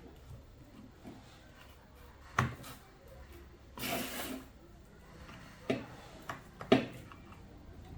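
Small hard objects being handled and set down: three sharp knocks, the loudest near the end, and a short burst of hiss about halfway through.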